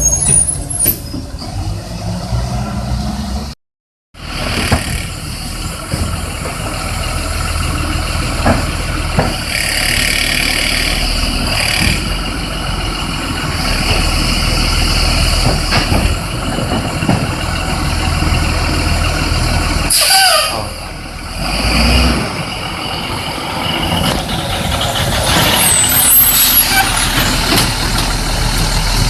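Garbage truck running close by, with a steady low engine rumble, hissing patches and a falling squeal about twenty seconds in. The sound breaks off briefly about four seconds in.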